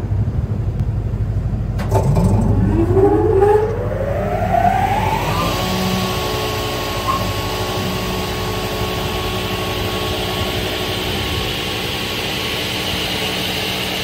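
Sicar single-shaft crawler-feed multi-rip saw starting up: a low machine hum, then about two seconds in the saw shaft's motor spins up with a whine rising in pitch, settling a few seconds later into a steady high whine as the saw runs at speed.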